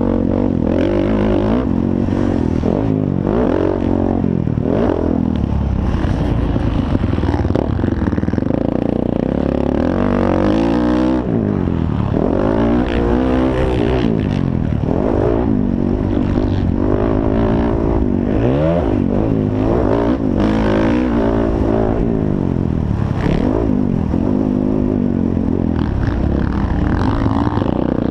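Motocross bikes racing, their engines revving up and falling away over and over as riders work the throttle and gears, with more than one bike's pitch overlapping at times.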